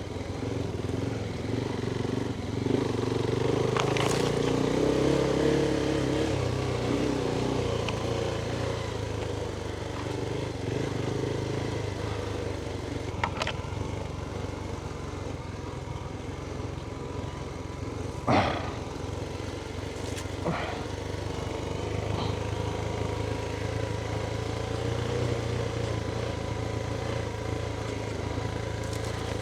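Adventure motorcycle engine running as the bike rides along a dirt track, the engine note rising for a few seconds near the start. A few sharp knocks cut through it, the loudest about 18 seconds in.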